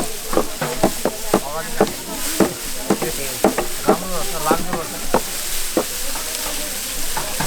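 Irregular crackling and rustling, dense with sharp clicks, with voices talking in the background.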